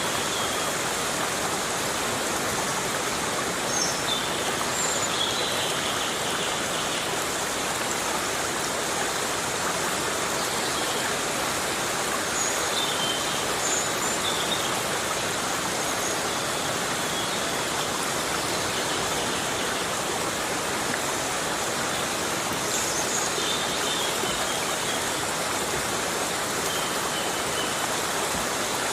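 Heavy rain falling steadily in a tropical forest, an even rushing hiss, with short high chirps every few seconds.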